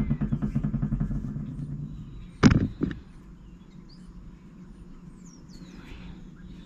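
A motor vehicle's engine running with a rapid even pulse, fading away over the first two seconds. Two sharp knocks follow about two and a half seconds in, then faint birdsong.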